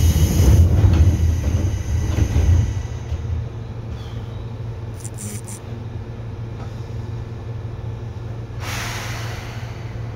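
Running noise of a Seibu 2000 series electric train heard from inside the passenger car: a low rumble of motors and wheels, loudest for the first three seconds, then settling to a steadier, quieter hum. A short burst of hiss comes about nine seconds in.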